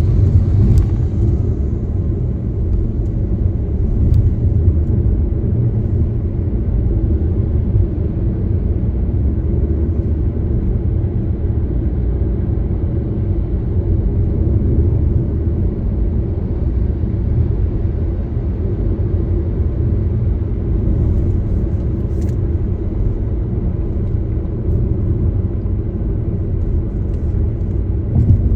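A car driving, a steady low rumble of road and engine noise.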